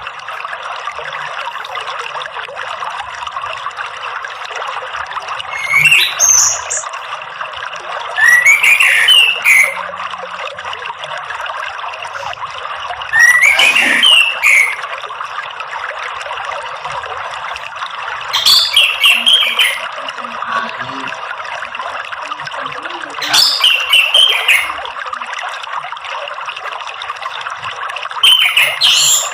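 Orange-headed thrush song in six short, loud chirping phrases, about one every five seconds, over a steady trickle of running water.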